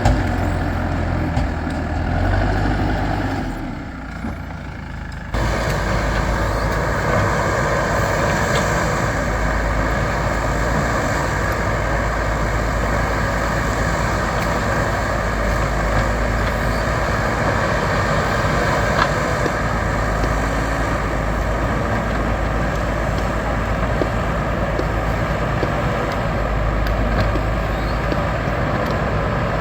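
Backhoe loader's diesel engine running steadily under work, with an abrupt cut about five seconds in to a steadier, lower drone.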